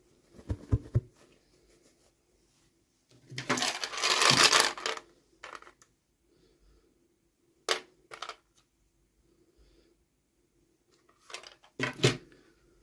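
Hands unboxing small plastic toys: a run of sharp clicks and taps as hard plastic pieces are handled and set down, and one longer crinkling rustle of packaging, the loudest part, about a third of the way in.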